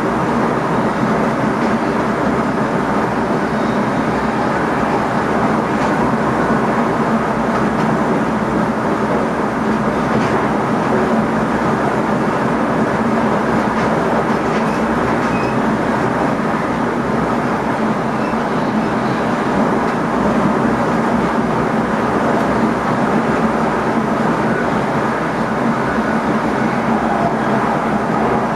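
Steady running noise of an NS ICM electric multiple unit at speed, heard from inside the driver's cab: an unbroken rumble of wheels on rails.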